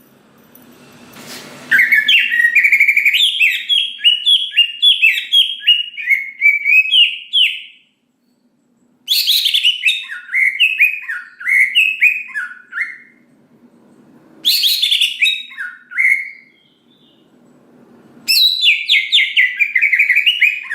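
A cucak ijo (green leafbird) singing in four rapid, chattering bouts of varied, sliding notes, separated by short pauses.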